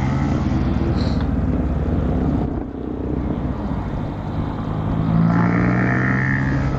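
Motorcycle engine running, heard from the rider's seat. The engine note dips briefly about two and a half seconds in, then comes back louder about five seconds in.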